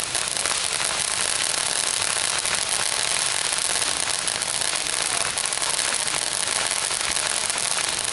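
Fireworks crackling in a dense, rapid, unbroken stream of sharp pops that holds steady throughout.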